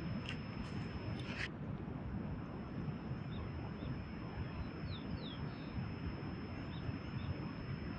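Two short, quick falling bird chirps about five seconds in, over a steady rushing haze of river water. A few sharp clicks sound in the first second and a half.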